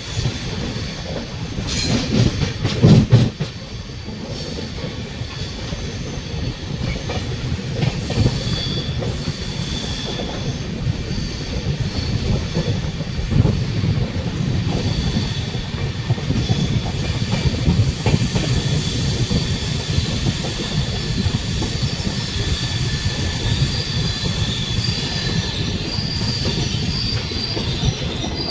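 Passenger train running on the rails: a steady low rumble with high-pitched wheel squeal, stronger in the second half, and a cluster of loud knocks about two to three seconds in.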